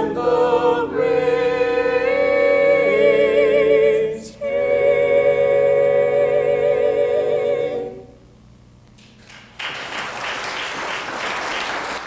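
Church choir holding the last sustained chord of the song, with vibrato, stopping about eight seconds in. After a short pause the audience breaks into applause.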